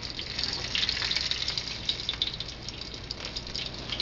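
Breaded chicken sizzling in hot olive oil in a frying pan, a steady dense crackle of small pops, with the burner just shut off.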